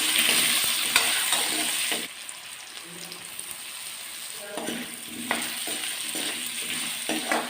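Potatoes frying in oil in a pan, sizzling, while a spatula stirs them and knocks against the pan. The sizzle drops noticeably about two seconds in.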